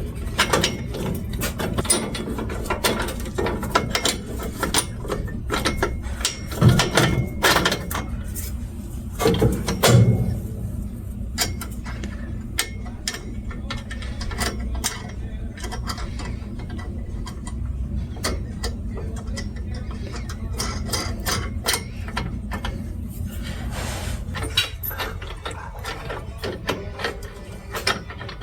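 Hand-tool work: irregular, ratchet-like clicking and clanking over a steady low hum, with two louder bumps about seven and ten seconds in.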